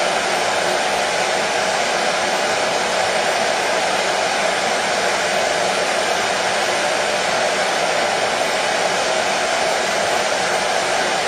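Hair dryer running steadily: an even rush of air with a faint motor hum, unchanging in level.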